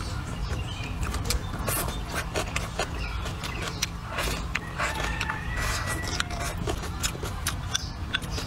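Close-up eating sounds: wet smacking, clicking and chewing as a mouthful of chili-dressed braised pork and greens is chewed, irregular through, over a steady low rumble.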